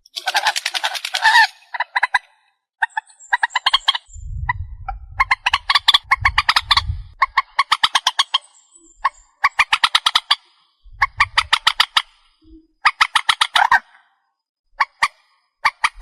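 Trích ré waterbird calling in repeated bursts of about a second, each a fast run of clicking, nasal notes, with short pauses between. This is a recorded lure call for trapping. A low rumble sits under a few of the calls in the middle.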